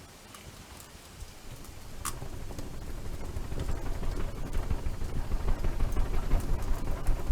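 Wood campfire with a sharp crackle about two seconds in, then a fluttering low rumble that builds steadily louder as the fire draws air.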